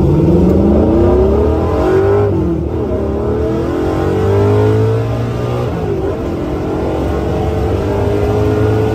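A 1969 Ford Mustang fastback's 351 Windsor V8 with an E303 cam, accelerating on the road. The revs climb, drop sharply twice as it shifts up through the T5 five-speed manual gearbox, then climb slowly again.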